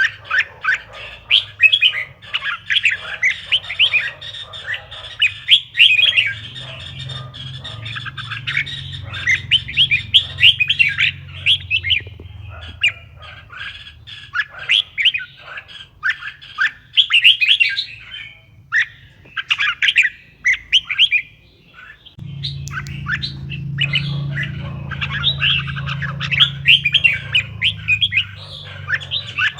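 Red-whiskered bulbuls singing: dense runs of quick, chirpy whistled notes with brief pauses. A steady low hum runs underneath and gets louder about two-thirds of the way through.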